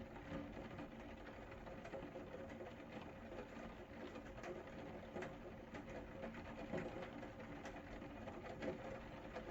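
Rain falling, with many scattered drops and drips ticking irregularly over a steady hiss, and a faint steady hum underneath.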